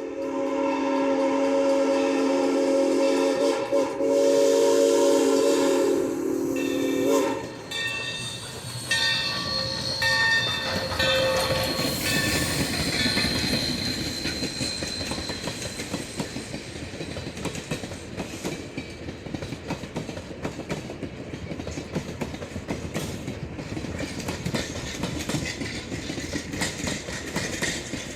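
Steam locomotive No. 3025, a Chinese-built 2-8-2 Mikado, sounds a long steady whistle blast that cuts off after about seven seconds. A few short high tones follow, then the fast, even clatter of the train rolling by.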